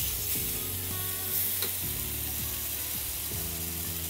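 Ash gourd slices sizzling steadily as they fry in hot mustard oil in a pan while they are turned over, with one light click about one and a half seconds in. Soft background music plays underneath.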